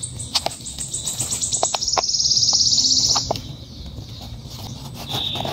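A bird gives a fast, high trill for about three seconds, dropping in pitch about two seconds in, then a short steady high note near the end. Soft knocks and rustles of a small plant pot being handled and tipped over sound beneath it.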